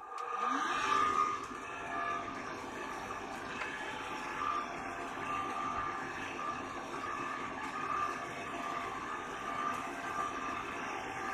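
Homemade vacuum cleaner's small electric motor starting up with a short rising whine, then running steadily.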